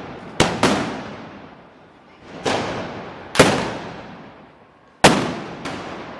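Six loud gunpowder blasts at irregular intervals, each sharp crack followed by a long echoing tail that dies away.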